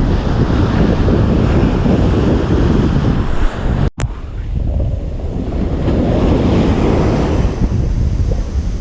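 Ocean surf breaking and washing up a beach, with wind buffeting the microphone as a heavy low rumble. The sound drops out for a split second about four seconds in, then the surf carries on.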